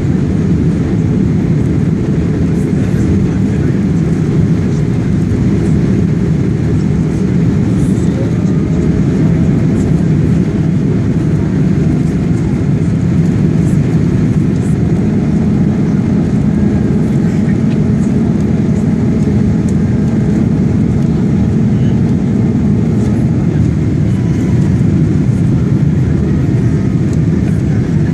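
Steady cabin noise of a Boeing 777-200ER in flight: the low, even rush of engines and airflow heard from inside the passenger cabin, with a few faint steady tones above it.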